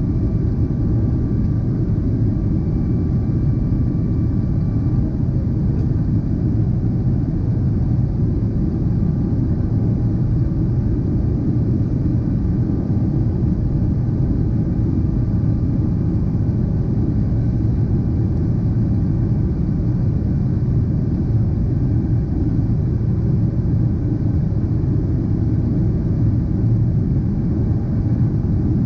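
Boeing 777-300ER's GE90-115B jet engines, heard as a steady low rumble with a faint whine over it in the first few seconds.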